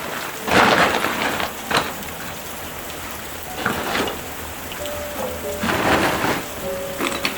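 Steady rain falling, swelling louder three times in brief surges.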